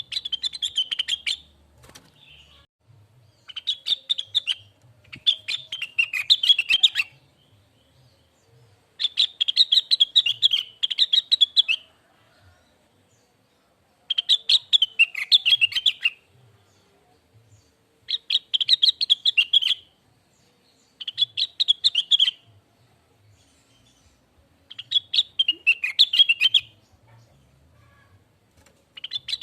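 Cucak wilis (leafbird) song: about eight phrases of rapid, chattering notes, each one to three seconds long, with short pauses between them.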